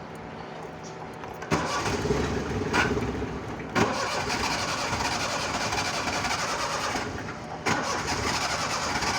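Suzuki Mehran's carburetted engine being cranked on a cold, hard start: the engine noise jumps up suddenly about a second and a half in, with a sharp jolt a couple of seconds later, then drops and surges up again near the end as the starting attempts go on.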